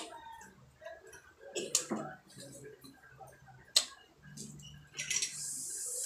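Close-miked eating sounds: a person chewing grilled meat with wet lip smacks, a few sharp clicks, and a hiss about a second long near the end.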